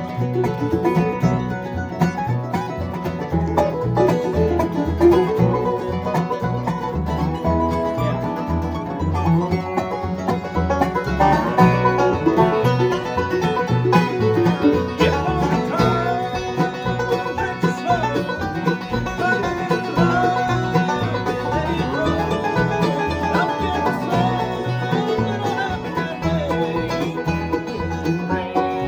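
Bluegrass music, an instrumental passage led by a picked banjo over guitar strumming and a steady bass rhythm.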